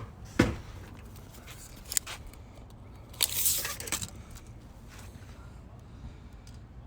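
A sharp knock, then a lighter click, then a short scraping, rustling burst about three seconds in: handling noises while working around the car.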